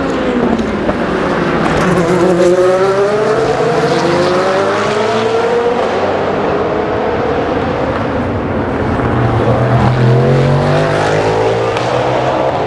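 Race car engines on the track: one car's note falls away as it passes at the start, then cars accelerate with their engine notes rising steadily through the gears, a second, deeper-sounding car coming up from about nine seconds in.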